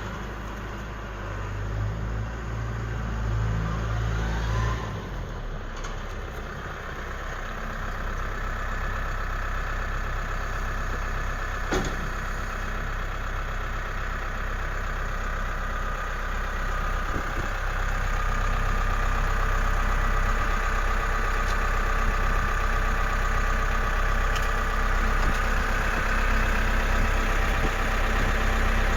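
New Holland TS100A tractor's diesel engine running steadily, growing gradually louder, with a single sharp click near the middle.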